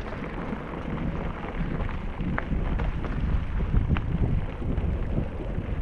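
Wind buffeting the microphone of a camera carried on a moving bicycle, with a steady low rumble and a couple of faint ticks around the middle.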